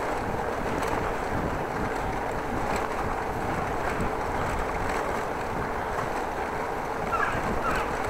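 Steady rush of wind buffeting the microphone outdoors.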